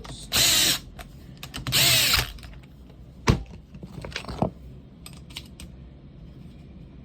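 Power drill-driver running the head bolts into a pneumatic siding nailer's cylinder cap, in two short bursts whose pitch rises and falls. Then two sharp knocks.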